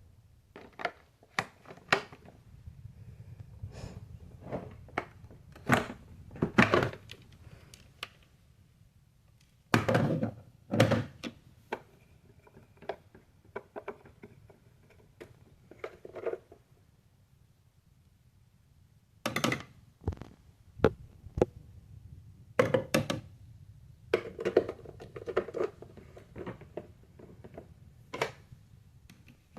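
Irregular knocks, thunks and clicks of hard objects being handled, in clusters with quiet gaps between them and no motor running.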